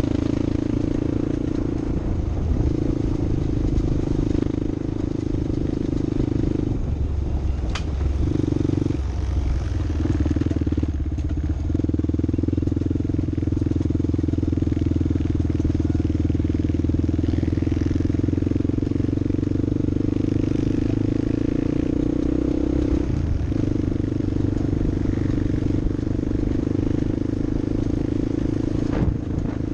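Off-road vehicle engine running steadily under load, its note breaking off briefly a few times as the throttle lifts or gears change.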